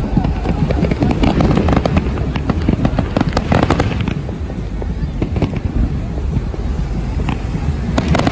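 New Year fireworks going off in a continuous barrage: many sharp bangs and crackles over a dense low rumble, with a thicker flurry of cracks a few seconds in and a couple of sharp bangs near the end.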